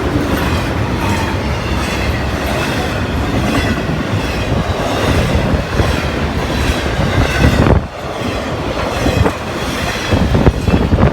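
A train passing close by: loud, steady rumble of wheels on the rails with clickety-clack over the rail joints and faint wheel squeal, dipping briefly about eight seconds in.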